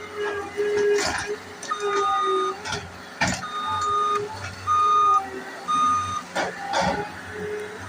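Skid steer backing up, its backup alarm beeping about once a second over the steady hum of its engine. Several sharp knocks and crashes cut through, about a second in and again near three and seven seconds.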